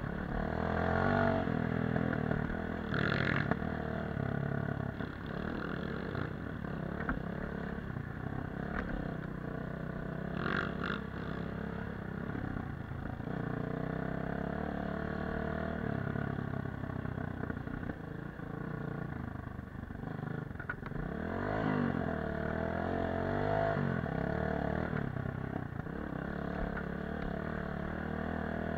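Dirt bike engine running under changing throttle while riding off-road, its pitch rising and falling a little past two-thirds of the way through.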